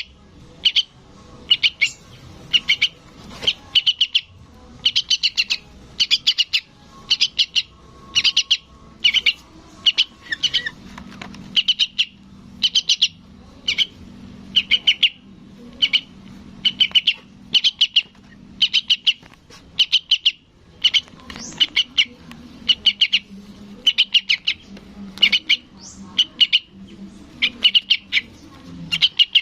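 Juvenile yellow-vented bulbul (trucukan) calling for its parent: short, high chirps given in quick pairs or triples, repeated about once a second without a break. A faint low hum runs under the calls from about a third of the way in.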